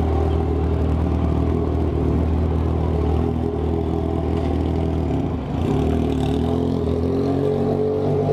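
Motorcycle engine heard on board while riding, running steadily under throttle. It eases off briefly about five and a half seconds in, then pulls again with rising pitch.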